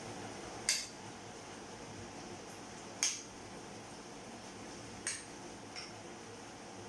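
Kitchen utensil clinking against a dish or bowl, four short sharp clinks spaced a second or two apart, while the flour coating for the chicken is mixed.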